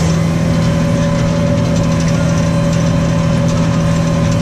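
New Holland T6.155 tractor's diesel engine running at steady revs, pulling a plough.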